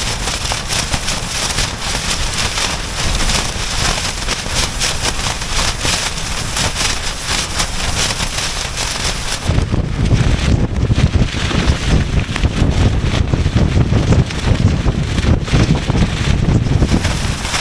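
Gale-force wind buffeting an ultralight Dyneema (DCF) tent, its fabric rattling rapidly against the gusts. About halfway through the sound turns into a heavy low rumble of wind blasting on the microphone.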